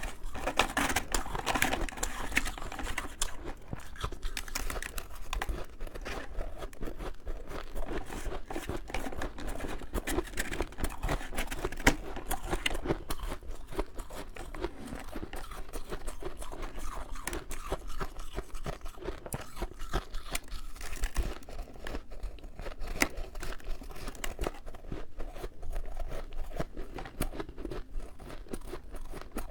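Powdery freezer frost being crunched and chewed close to the microphone: a dense run of small, crisp crackles, with one sharper crunch about halfway through.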